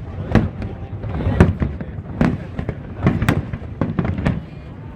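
Fireworks bursting in a rapid series of sharp bangs, roughly one every half second, each followed by a short rumbling tail.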